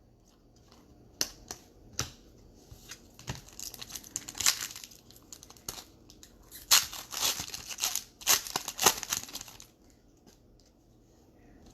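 Foil wrapper of an Optic baseball card pack being torn open and crinkled: a few light clicks and taps, then two spells of ripping and crinkling that stop shortly before the end.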